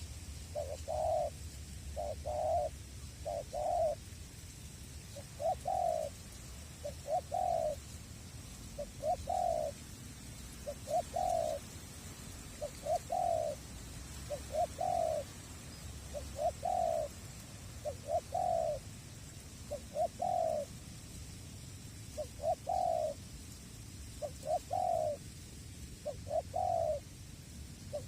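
Spotted dove (tekukur) cooing over and over in short coos, about one a second and sometimes in quick pairs, with a low wind rumble underneath.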